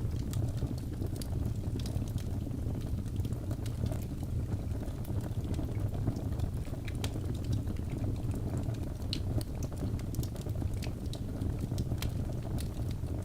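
Logs burning in a fireplace: a steady low rumble from the fire with frequent irregular sharp crackles and pops.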